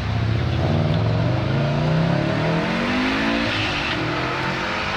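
A car engine accelerating. Its pitch rises steadily for about three seconds, then it eases off over a steady low exhaust rumble.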